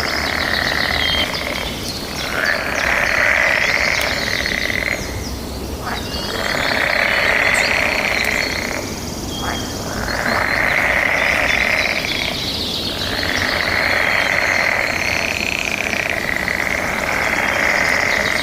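A chorus of frogs calling in the breeding season, swelling and fading in waves every few seconds. Thin, high chirping of birds or insects runs over it.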